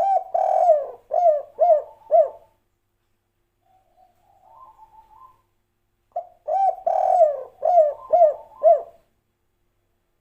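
Spotted dove (derkuku/tekukur) cooing its 'kuk 3' song twice: a long coo followed by three short falling notes, with a softer, fainter warbling coo between the two phrases.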